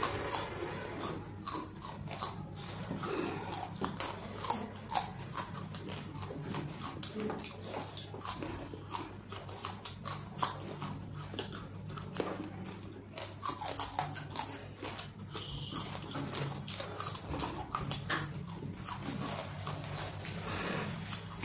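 Raw green chillies bitten and chewed by two people: many short, crisp crunches and chewing sounds over a steady low hum.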